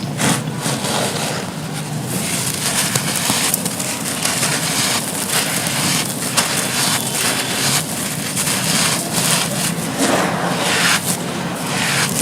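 Dry, brittle, dusty material such as charcoal, ash or soft brick being crumbled and crushed, a steady run of small crunches and gritty crackles.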